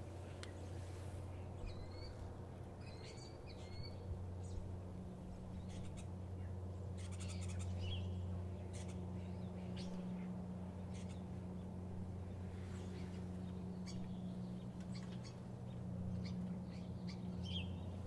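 Scattered short bird chirps and calls over a steady low hum.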